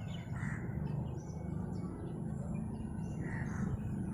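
Small birds chirping in short scattered calls over a steady low background rumble.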